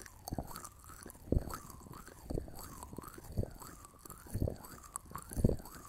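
Close-miked ASMR ear-massage sounds: soft, muffled knocks about once a second on the microphone, with faint scratchy rubbing between them.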